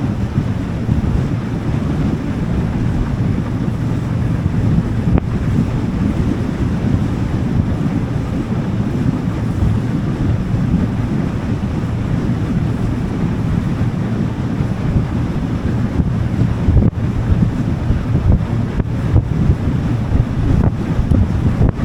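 Wind buffeting the microphone on a moving motorboat, over the steady low hum of its engine and water rushing along the hull.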